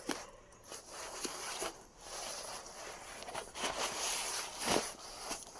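Rustling and handling noises, uneven and noisy, with a few faint clicks.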